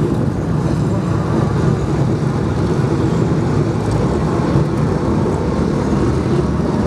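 BriSCA F1 stock cars' V8 engines running together on the speedway track, a steady, loud, deep engine noise.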